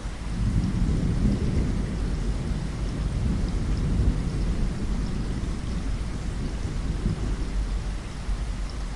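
Steady rain pattering on a window pane, with a low rumble of thunder that swells just after the start, rolls on for several seconds and fades near the end.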